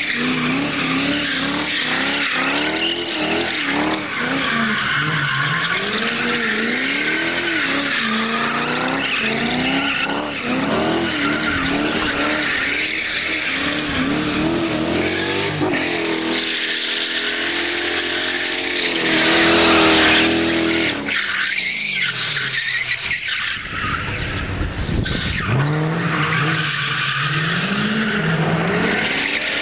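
BMW 4.4-litre V8 drift car revving up and down again and again as it slides, with tyres squealing. The engine is held at high revs around the middle, where it is loudest, and drops back to swinging revs near the end.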